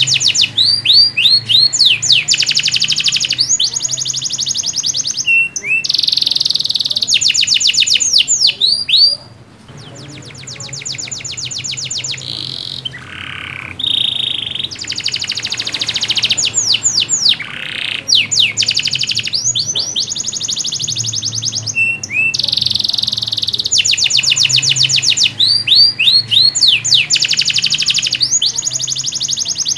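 Domestic canary in full song: long runs of fast trills of rapidly repeated notes alternating with sweeping, slurred phrases. There is a softer, sparser passage about a third of the way in.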